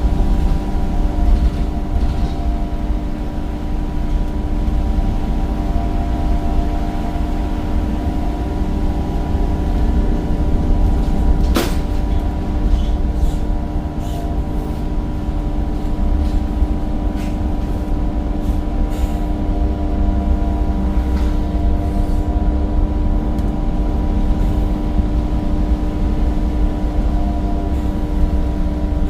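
Temsa Avenue bus's replacement Cummins diesel engine running at a steady pitch under heavy low rumble while the bus is driven, with one sharp click about twelve seconds in.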